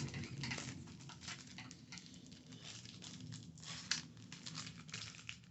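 Tapping on small items, quick irregular taps with one sharper tap about four seconds in.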